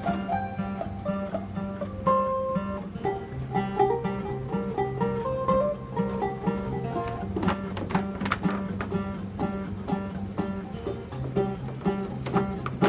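Acoustic guitars playing an instrumental break: a picked single-note melody over chords, with the strumming growing more prominent in the second half.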